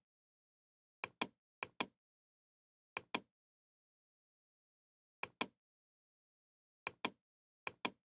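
Sharp double clicks: six pairs of short clicks, the two in each pair about a fifth of a second apart, with dead silence between the pairs.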